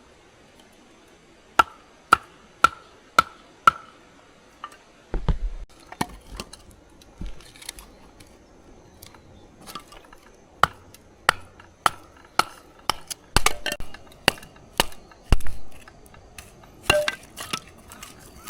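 Chopping with a blade: five sharp, evenly spaced knocks at about two a second, then irregular strikes with a few heavier, duller thuds.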